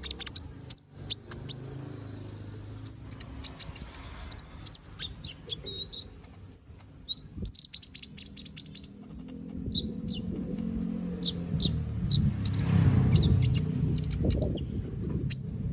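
Konin (kolibri ninja), a small sunbird, singing in quick runs of short, sharp high chirps and brief trills. A low rumble builds up behind it in the second half.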